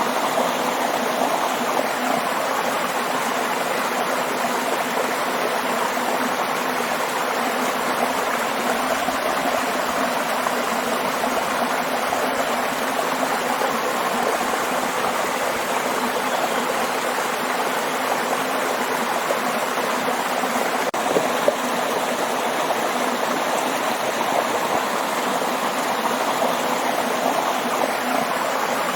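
Waterfall water rushing steadily, an even, unbroken noise.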